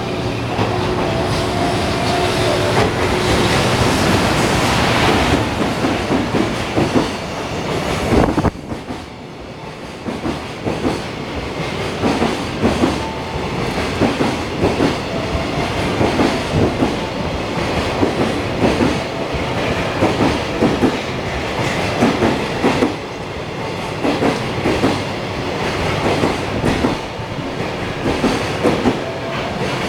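A JR Freight EF210 electric locomotive passes with a few steady tones for the first several seconds. After a sudden dip about eight seconds in, its freight wagons roll by with a repeated clickety-clack of wheels over rail joints.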